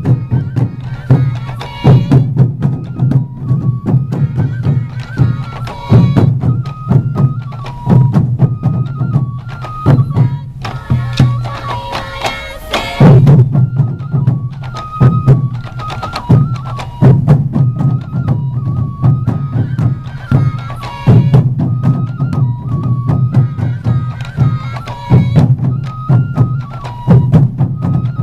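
Morioka Sansa Odori festival music: taiko drums beating a steady, driving rhythm with a bamboo flute melody over it.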